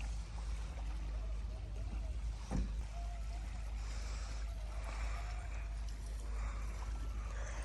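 Steady low rumble of wind buffeting the microphone, with one sharp knock about two and a half seconds in.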